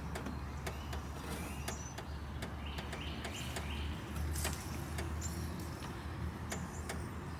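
Scattered light clicks and taps of hands fitting the throttle and choke linkage rods onto a riding mower's carburetor, over a steady low hum.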